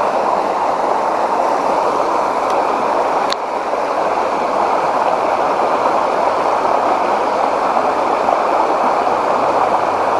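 Fast-flowing creek water rushing steadily and loudly, with a single small tick a little over three seconds in.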